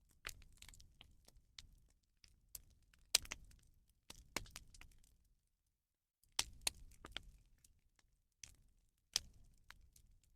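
Rubbish bonfire burning, with irregular sharp cracks and pops over a low rumble of flames.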